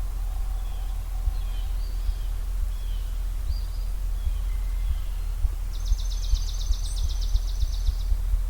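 Ruffed grouse drumming: low thumps that come faster and faster. Over it, birds give scattered short chirps, and for about two seconds past the middle one bird sings a dry, rapid trill of many evenly repeated notes.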